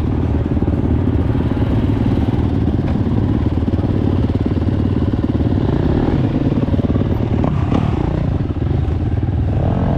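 Four-stroke single-cylinder dirt bike engine running steadily while riding.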